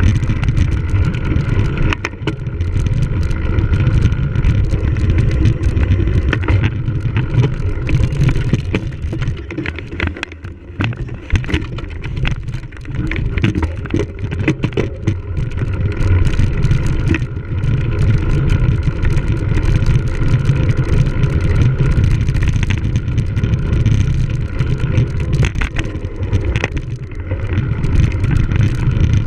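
Wind rushing over a bike-mounted or rider-mounted camera's microphone, with the rattle and clatter of a cyclocross bike on rough ground. The clatter is busiest in the middle, where the rumble briefly eases.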